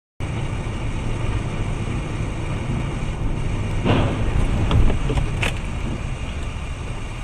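Car driving, as recorded by a dashcam: a steady low rumble of engine and road noise that cuts in abruptly just after the start, with a few short knocks between about four and five and a half seconds in, the loudest near the middle.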